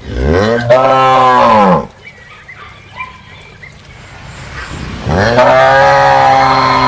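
Cow mooing: two long, low moos, the first lasting about two seconds, the second starting about five seconds in.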